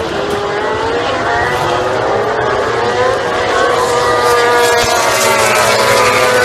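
MotoGP racing motorcycle engines running at high revs, several engine notes rising and falling in pitch with throttle and gear changes.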